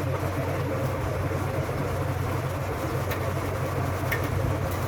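A steady low machine drone, with two brief clicks about three and four seconds in.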